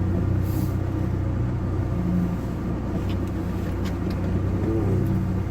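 GAZ Gazelle's ZMZ-405 four-cylinder petrol engine running at low revs, heard from inside the cab as the van creeps along, a steady even hum.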